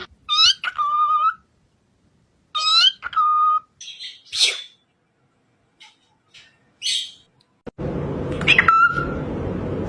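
Pet parrot calling: two matching whistled calls, each sweeping up and down and ending on a held note, followed by shorter whistles and squeaks. Near the end a steady rushing noise comes in, with another call over it.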